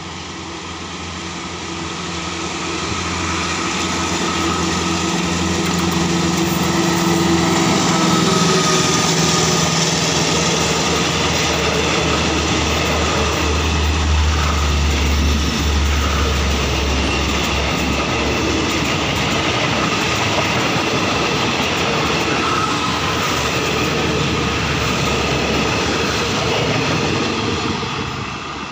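Caterpillar-engined Alsthom diesel-electric locomotive of a passenger train passing close by. Its engine hum builds as it nears, then gives way to the steady rumble and clatter of the coaches' wheels on the track, which fades near the end as the train moves away.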